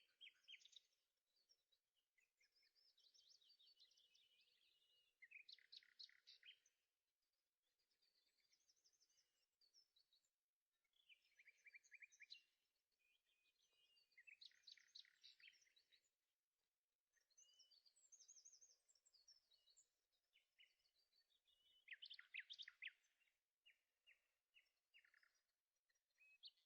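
Faint bird song: a songbird singing in repeated phrases of quick chirps and rapid trills, with short pauses between bouts.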